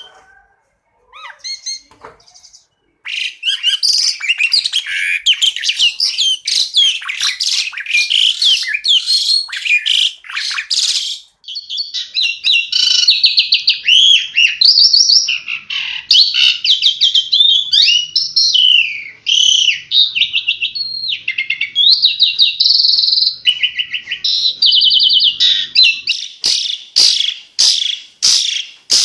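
Asian pied starling (jalak suren) song: a loud, fast run of varied whistles, trills and chattering phrases. It starts after a brief pause and ends in a string of rapid, sharp notes.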